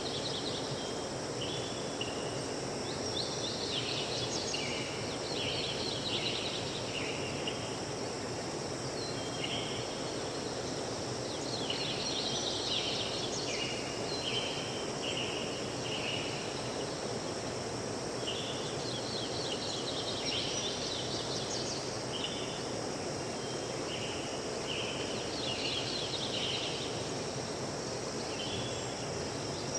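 Forest ambience: a steady rushing background noise with runs of short high chirping calls that come back every few seconds.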